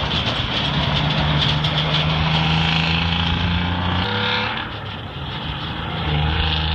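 Detroit Diesel 12V71 two-stroke V12 diesel engine of a Kenworth road train running steadily. About four seconds in its pitch shifts and the sound briefly drops away, then it comes back at the same steady note about six seconds in.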